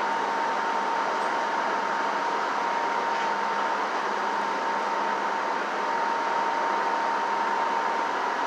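Steady mechanical running noise of heavy vehicles at work, even and unchanging, with a thin steady whine on top.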